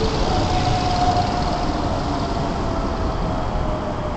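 Hokuso Railway electric commuter train slowing to a stop at a platform: steady rumble of the cars with a whine that falls slowly in pitch as it brakes.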